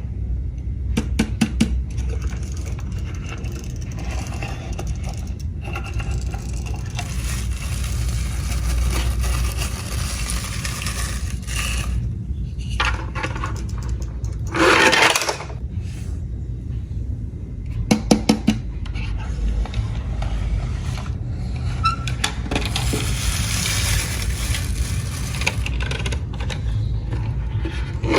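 Hard toy cars clattering and scraping, with quick runs of small clicks about a second in and again later, and a short loud rush of noise about halfway through, over a steady low rumble.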